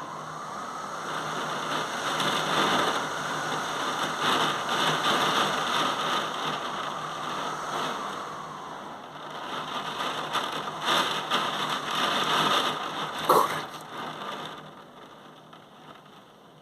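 Heavy rain in a thunderstorm, a steady downpour that swells and eases. A brief sharp sound about thirteen seconds in is the loudest moment, and the downpour then dies away quickly near the end.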